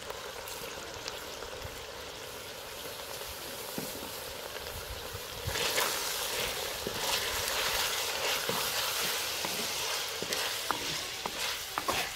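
Boneless chicken, onion and spices sizzling in hot ghee in a clay pot. About halfway through, a wooden spoon starts stirring: the frying gets louder, with scraping and light knocks against the pot.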